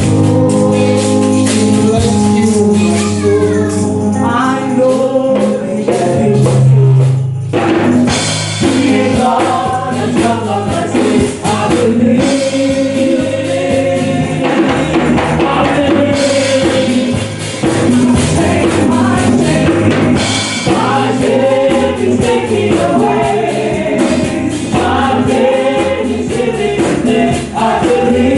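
Gospel music: a choir singing with tambourine and band accompaniment, breaking off for a moment about seven seconds in before carrying on.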